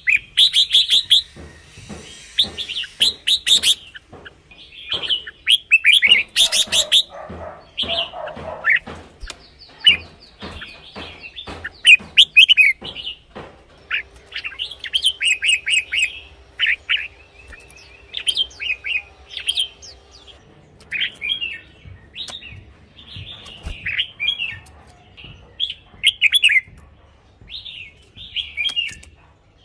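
Red-whiskered bulbul singing: short, bright warbled phrases repeated again and again with brief gaps.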